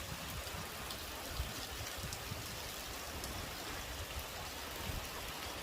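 Heavy typhoon rain falling steadily, with an uneven low rumble of wind buffeting the microphone and a few sharper drop hits.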